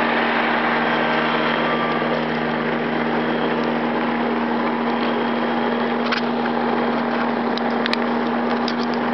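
Powered parachute's engine idling steadily at one even pitch, off the throttle.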